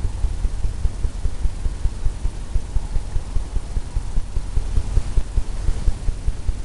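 Low, rapid, uneven thumping as a brush strokes and blends wet oil paint on a stretched canvas.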